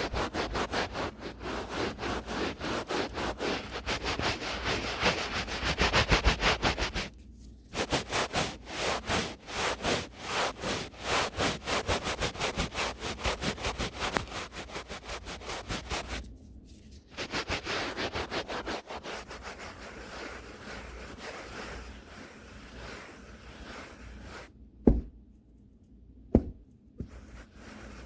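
A brush swept quickly and hard across the microphone in a fast run of rasping strokes, with two brief pauses. The strokes turn softer in the last third, and a few sharp knocks sound near the end.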